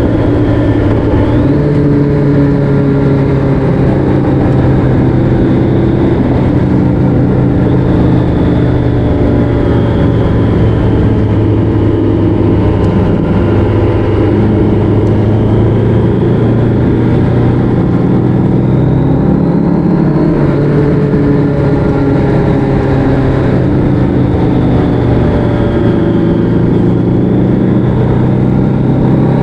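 Motorcycle engine running steadily under way at cruising speed, its note shifting up and down a little a few times with the throttle.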